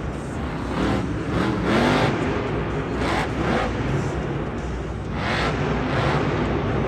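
Monster truck engine running and revving up and down in an arena, with surges of louder noise.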